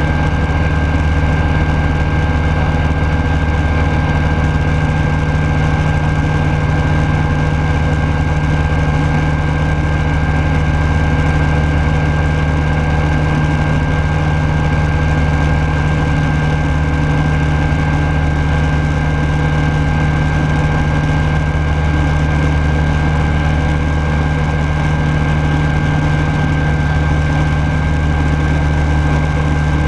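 Rans Coyote S6 ultralight's Rotax 912S four-cylinder engine and propeller running steadily at cruise power, heard loud inside the cockpit, with a constant low drone and no change in pitch.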